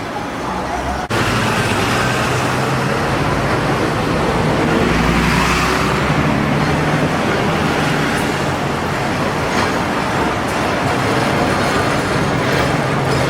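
City street traffic noise, steady after an abrupt change about a second in, with a low hum from passing vehicles.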